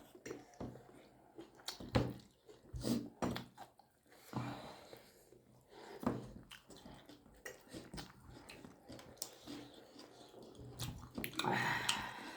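People chewing and eating momos: mouth and chewing noises with scattered short clicks and taps, and a brief murmur of voice near the end.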